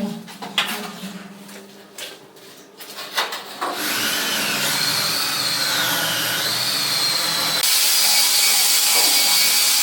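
Scattered clicks and knocks, then a power tool starts about four seconds in and runs steadily, its whine wavering in pitch. It gets louder and brighter about eight seconds in.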